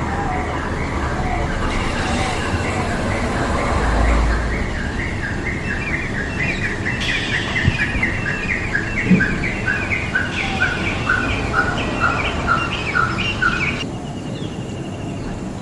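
A bird calling in a long, rapid series of short, evenly repeated chirps over steady background noise, stopping abruptly near the end.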